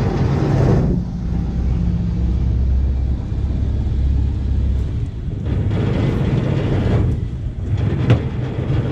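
Motorboat engine running underway, a steady low drone, with a rushing noise that swells and fades a few times.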